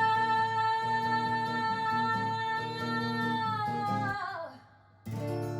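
Live band music: the closing long held note of a rock song, which slides down in pitch and dies away about four and a half seconds in. Just after five seconds a guitar chord is struck and rings on.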